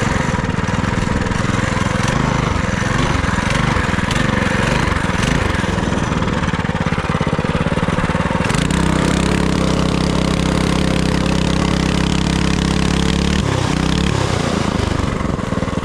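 FRP GMB100 minibike's small single-cylinder engine running under changing throttle. From about eight seconds in it holds a steady pitch for several seconds, then drops off a couple of seconds before the end. A steady rush of wind noise runs over it.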